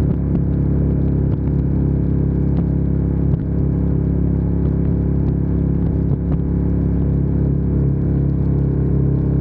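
Ducati Diavel 1260S's V-twin engine running steadily at an even, unchanging pitch while the motorcycle cruises.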